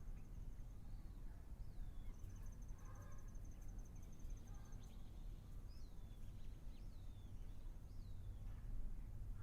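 Wild birds calling: several short whistled notes that fall in pitch and a few lower, fuller calls, over a steady low background noise. A high, fast-pulsed trill runs for a few seconds in the first half.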